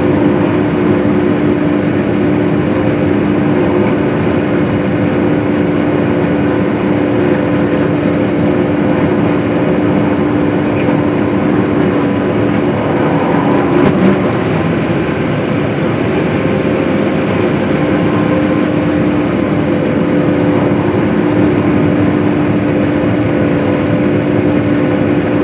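Case IH swather (self-propelled windrower) running steadily while cutting hay: a constant machine drone with a few steady tones, and a single brief click about halfway through.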